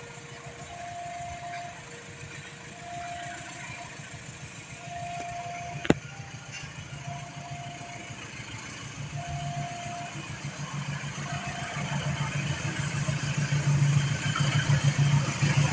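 Railway level-crossing alarm sounding a slow two-tone chime, alternating high and low about once a second. Under it a low rumble grows steadily louder through the second half as the train approaches. A single sharp click comes about six seconds in.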